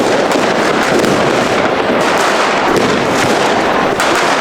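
Many fireworks and firecrackers going off at once, a continuous crackling din with sharp bangs scattered through it.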